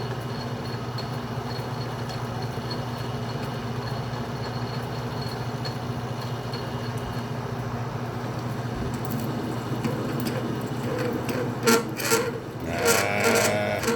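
Atlas metal lathe running with a steady motor hum while a single-point tool cuts an internal square thread in 304L stainless steel. The cutting noise builds over the last few seconds into louder scraping, with a couple of sharp clicks and a brief pitched squeal near the end.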